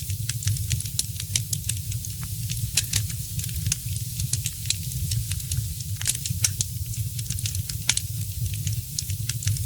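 Wood fire crackling: irregular sharp pops and snaps, a few louder than the rest, over a steady low rumble and hiss of the flames.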